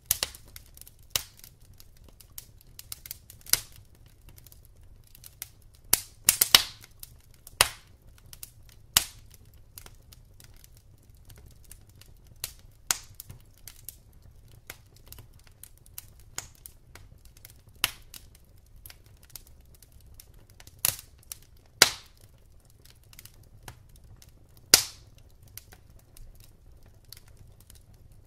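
Wood burning in a fireplace, crackling with irregular sharp pops and snaps, a quick cluster a few seconds in and several louder single pops later, over a low steady rumble.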